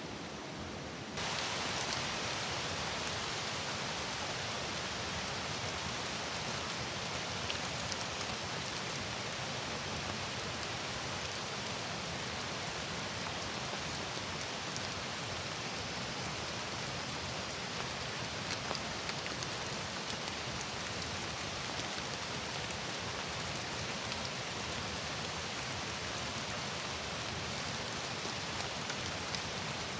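Heavy rain falling steadily, a dense hiss with the odd drop tick; it jumps louder about a second in and then holds steady.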